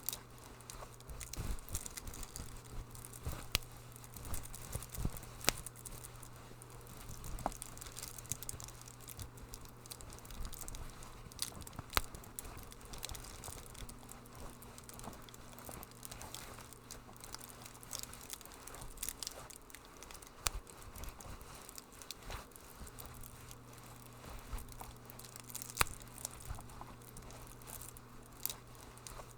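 Wood fire crackling in a fireplace, with irregular sharp pops and snaps over a low steady hum.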